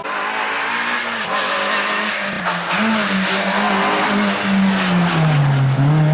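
Rally car engine running hard at high revs, its pitch wavering and then dropping a little about five seconds in, over a steady hiss of tyre noise.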